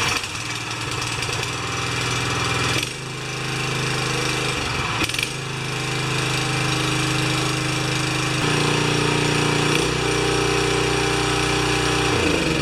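Honda-clone single-cylinder pressure washer engine running on full choke just after starting, its speed shifting in steps several times.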